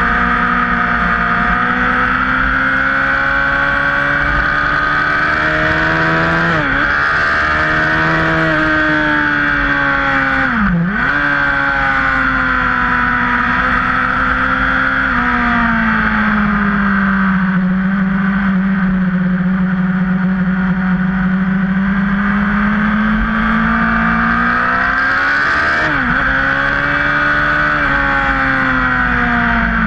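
Sport motorcycle engine running hard at high revs on track, heard from on board. Its note holds high, and a few times the pitch drops sharply and climbs back, about seven and eleven seconds in and again near the end, as the bike keeps gaining speed.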